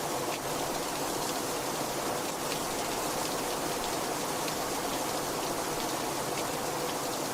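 Heavy rain falling steadily, with scattered individual drops ticking through the hiss.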